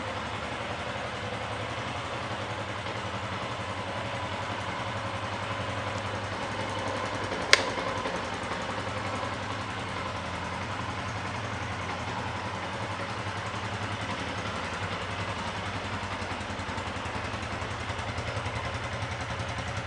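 Yamaha Exciter 150's single-cylinder four-stroke engine idling steadily through its exhaust, with one sharp click about seven and a half seconds in.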